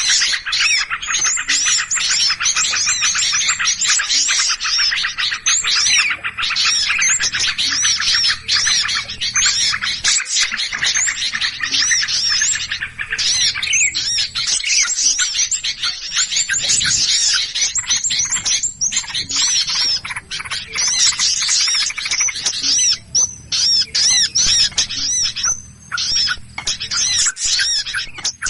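Many small songbirds chirping and squawking at once in a dense, rapid, overlapping chatter: a bird-trapping lure recording of agitated, alarm-calling birds.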